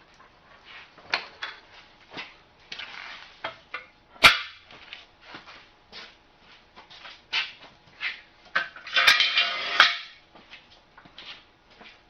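Scattered metal clicks and knocks of tools and tractor parts being handled during a clutch install. There is one sharp clank about four seconds in, and a short rasping, clattering burst around nine to ten seconds.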